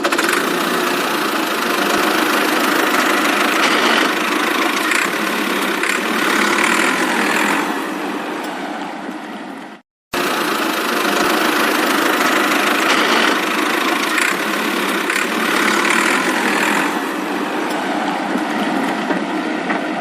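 Motor of a miniature DIY model tractor running steadily, a dense mechanical noise with no clear pitch. The sound cuts out abruptly for a moment about halfway through, then resumes.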